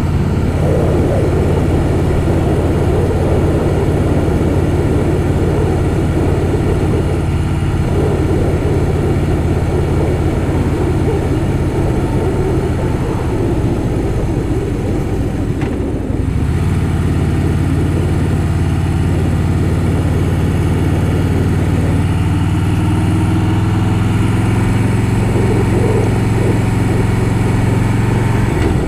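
Harley-Davidson Softail Fat Boy's V-twin engine running steadily under way, with rushing wind noise. The engine note breaks off briefly about halfway through, then comes back and rises in pitch toward the end as the bike pulls.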